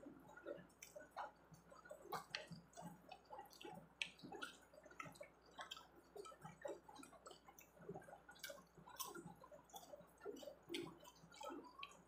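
Faint chewing and wet mouth sounds of someone eating pechay (bok choy) leaves and shrimp crackers, with a steady scatter of small irregular clicks.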